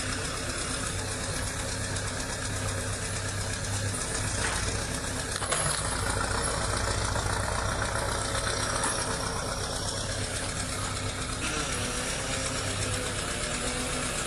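Heavy diesel machinery running steadily, with a few sharp knocks around four to six seconds in.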